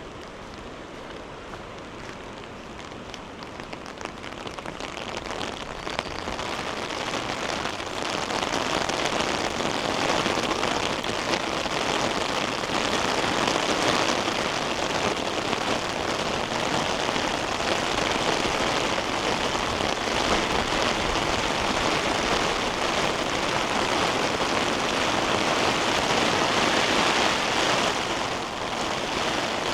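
Heavy rain pouring down, a dense hiss that builds over the first several seconds and then holds steady.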